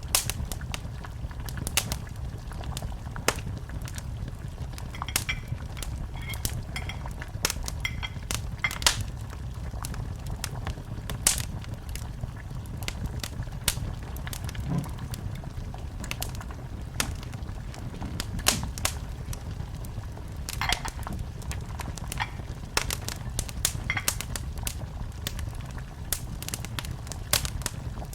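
Wood fire in a fireplace crackling, with irregular sharp pops and snaps over a steady low rumble of the burning.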